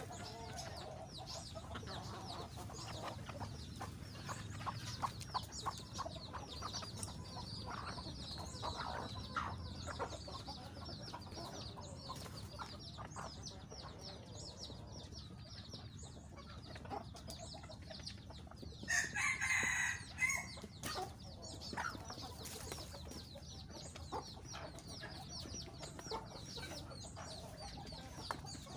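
Chickens clucking, with many short high chirps and small clicks throughout; a rooster crows once, loudly, about two-thirds of the way through.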